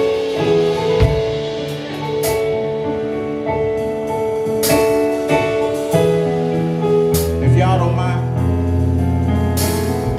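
Live gospel band playing an instrumental passage: sustained keyboard chords with cymbal crashes every couple of seconds, and a low bass line joining about seven seconds in.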